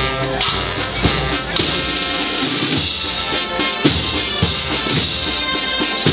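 Band music: sustained wind chords over drum strokes.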